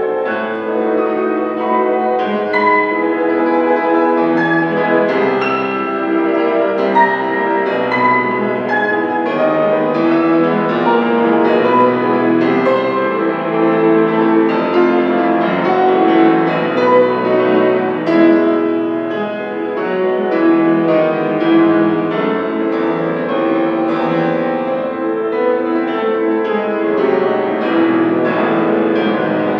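Solo piano playing classical music: a dense, continuous flow of many overlapping notes.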